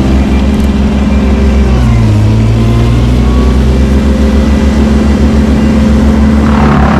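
Heavy engine running steadily with a deep, even drone, its pitch shifting briefly about two seconds in.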